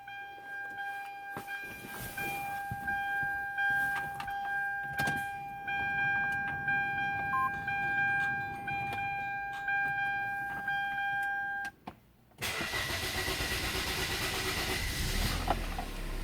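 A steady electronic warning tone runs with scattered clicks and stops about twelve seconds in. After a brief hush, the Hyundai Sonata LPi engine starts and runs steadily.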